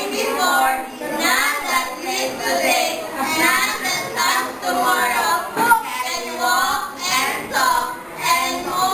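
A group of young voices reciting together in a chanted, half-sung choral delivery, in short phrases with brief breaks about once a second. One sharp clap or knock about two-thirds through.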